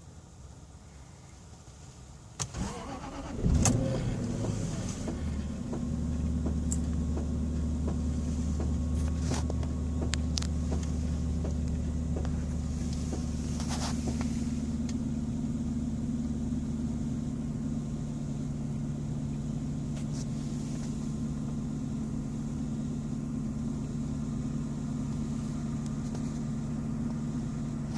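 A car engine started: a click and a short crank about two and a half seconds in, the engine catching with a loud surge about a second later, then settling to a steady idle. The start carries the strange noise the owner is asking about.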